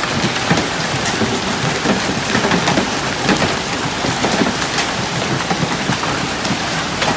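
A hailstorm with heavy rain: a dense, steady patter of rain shot through with many sharp individual hailstone impacts.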